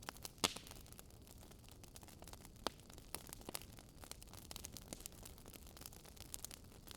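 Wood fire crackling faintly: irregular pops and snaps over a low, steady hiss, with one sharper pop about half a second in.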